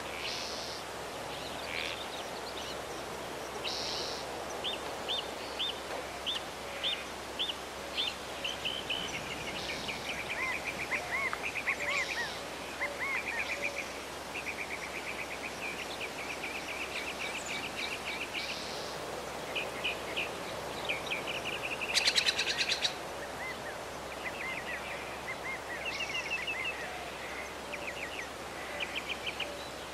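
Birds chirping and trilling over a steady outdoor hiss, with short calls repeated in quick runs. A louder rattling call breaks in about two-thirds of the way through.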